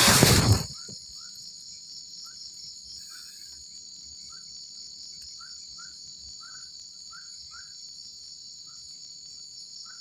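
Night insect chorus of crickets, a steady high-pitched buzzing, with short chirps from another animal scattered through it. A loud burst of rustling noise opens it and dies away in under a second.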